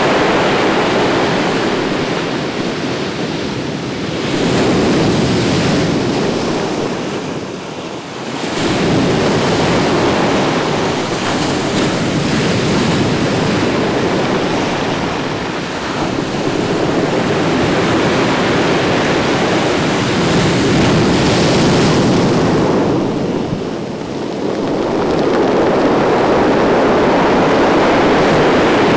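Ocean surf breaking on the shore: a continuous rush of waves that swells and eases, with lulls about eight seconds in and again about two-thirds of the way through.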